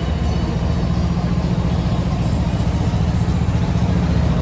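A big truck engine idling steadily close by, a deep, even low-pitched rumble.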